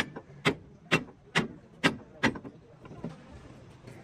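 Hammer blows at a steady pace of about two a second, six in all, stopping about halfway through.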